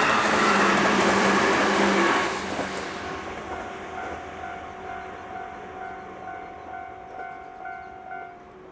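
A JR Ryomo Line train running over the level crossing, loud for about two seconds and then fading as it moves away. The crossing's warning bell keeps sounding in a steady repeating beat of about two a second while the train recedes.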